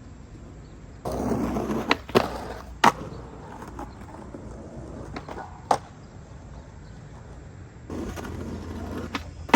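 Skateboard wheels rolling, with several sharp clacks of the board hitting the ground. A short roll about a second in, followed by three quick hard knocks; a single knock later; then a second roll near the end that ends in a loud crack.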